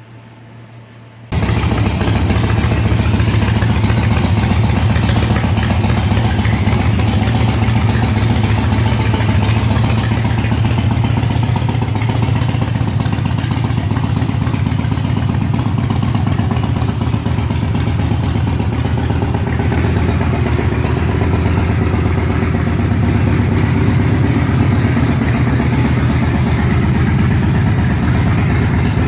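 2004 Yamaha Road Star's 1670cc air-cooled V-twin running at a steady idle through Vance & Hines exhaust. It comes in suddenly about a second in.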